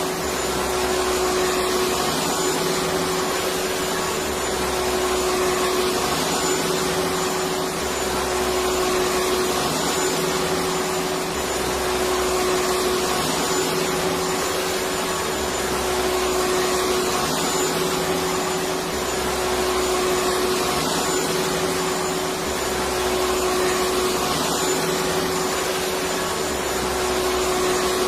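Electric vacuum cleaner running steadily: a continuous whooshing motor noise with a steady hum, and a low undertone that swells and fades every few seconds.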